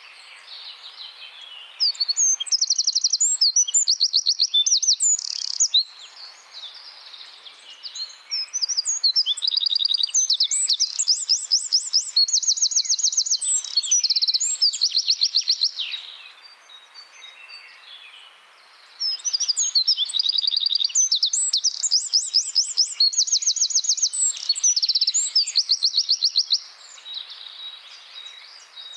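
Wren singing in three long bouts of very fast, high, dense trills, the rapid-fire 'tembakan' song used as a tutor recording for cage birds.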